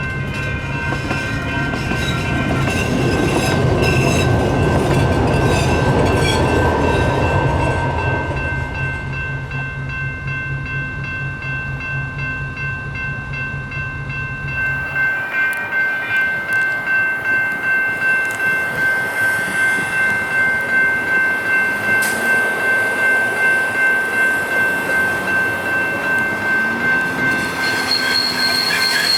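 Light rail train passing with a low rumble and clicking wheels, while a railroad crossing bell rings steadily. About halfway through, the train rumble stops abruptly and the crossing bell carries on, pulsing about one and a half times a second.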